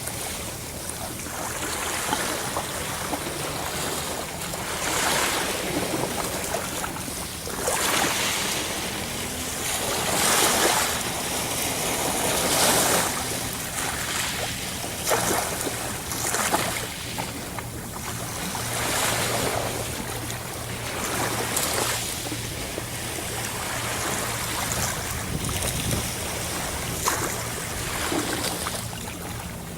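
Sea waves breaking and washing in, over and over, with a swell of louder surf every few seconds.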